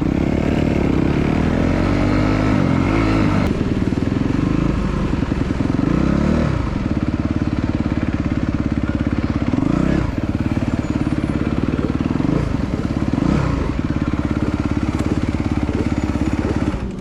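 250cc motocross bike engine running hard, its pitch climbing and dropping again and again as it revs, shifts and backs off.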